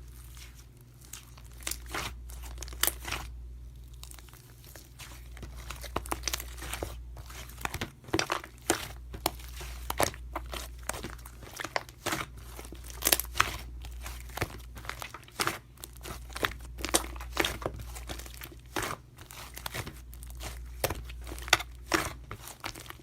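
Irregular crinkling and crackling, like plastic or paper being handled, over a steady low hum.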